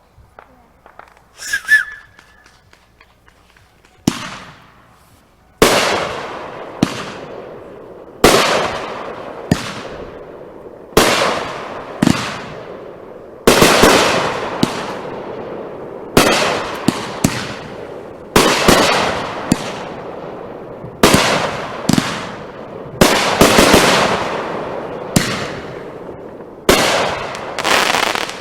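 Consumer aerial fireworks bursting in a steady run of loud bangs, about one a second, each leaving a fading tail. A short hiss comes just before the barrage starts.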